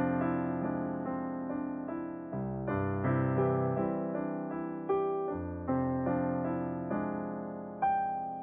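Piano playing a slow, gentle piece: chords and melody notes struck one after another, each left to ring and fade before the next.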